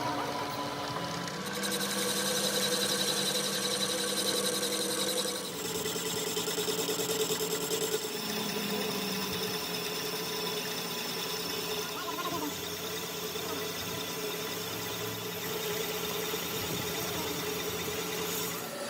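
A workshop machine running steadily with a constant hum, its note shifting about one and a half and five and a half seconds in.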